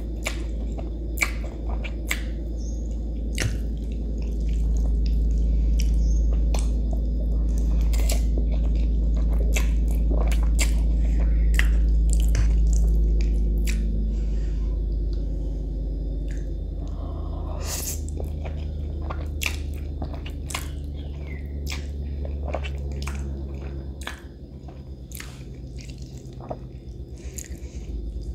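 Chewing of spaghetti in marinara sauce, with many short mouth clicks and smacks, over a steady low hum.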